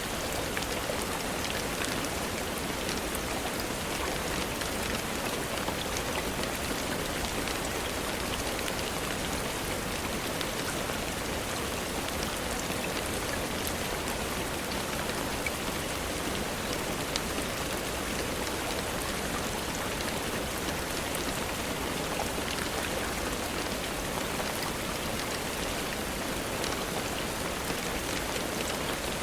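Steady rainfall: an even hiss of rain with many small scattered ticks of drops, unchanging throughout.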